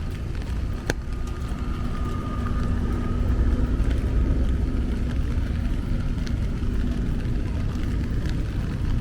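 Street traffic: a vehicle engine running close by, a steady low rumble with a constant hum over it. A single sharp click comes about a second in.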